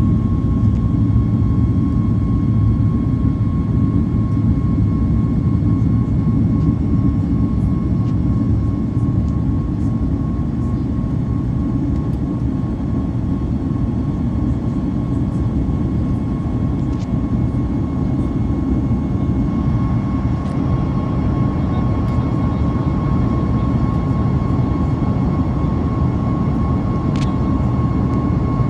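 Steady cabin noise inside a Boeing 737 MAX with its jet engines running: an even low rumble of engines and airflow with a thin steady whine above it.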